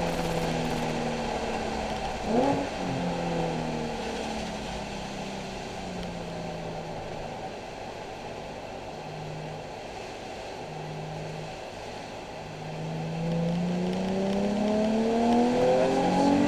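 Nissan 370Z's 3.7-litre V6 off the throttle at low revs through the middle, with a brief sharp rev blip about two seconds in, then accelerating with its pitch rising steadily over the last few seconds.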